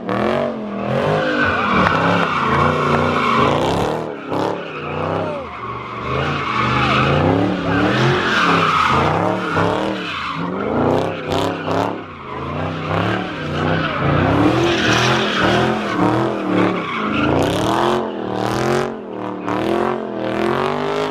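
A car doing donuts: the engine revs up and down over and over while the tires squeal and skid on the pavement.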